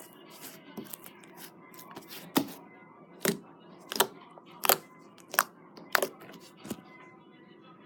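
Slime being squeezed and poked by hand, giving a run of sharp wet pops and clicks, about seven of them spaced well under a second apart, loudest in the middle.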